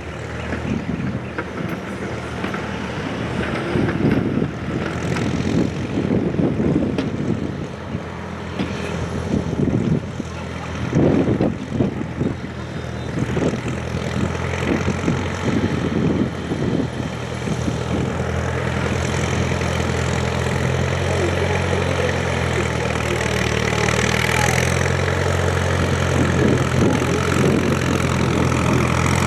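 Antique farm tractor engine running, with uneven loud surges over the first half before settling into a steady, slowly rising run.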